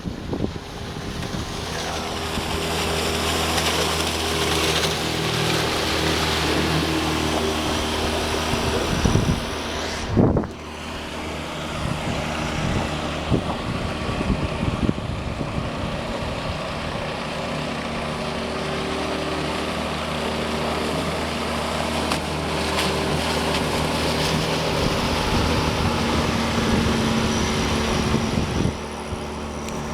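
A 9.9 hp, 220 cc outboard motor running steadily at speed on a hydrofoil catamaran, with water rush and wind buffeting the microphone. There is a brief dip in the sound about ten seconds in.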